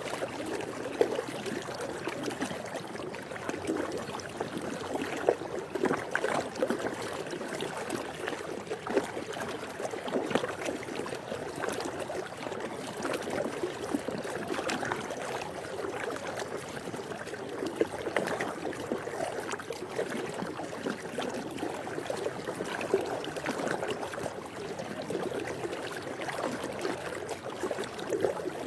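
Swimming pool water moving and lapping: a steady wash of sound broken by many small, irregular splashes.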